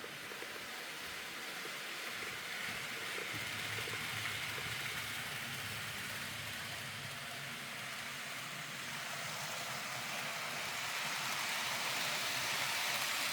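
N gauge model train running along code 55 track: a steady whirring, rattling hiss of the small motor and wheels on rail, getting a little louder toward the end.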